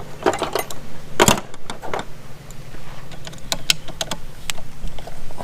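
Metal hand tools clinking and knocking while a 3/8 tool is found and put to work: a series of sharp irregular clicks, the loudest about a second in, over a faint low steady hum.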